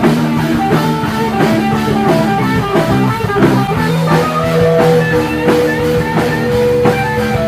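Live punk rock band playing an instrumental stretch of a song: guitar chords over a steadily beating drum kit, with a long held note coming in about halfway through.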